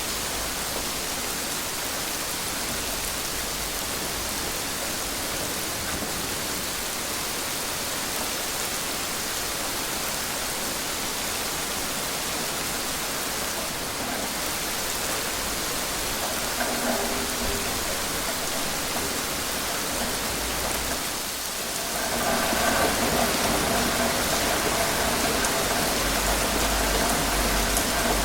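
Steady rain falling, an even hiss. About three-quarters of the way through, the sound grows a little louder and a steady hum made of several tones joins the rain.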